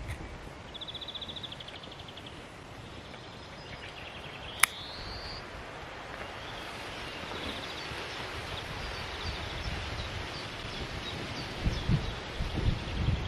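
Outdoor woodland ambience with bird calls: a rapid high trill early on and again later, and a short rising whistle. A single sharp click comes about four and a half seconds in. A rustling hiss builds through the second half, with a few low thumps near the end.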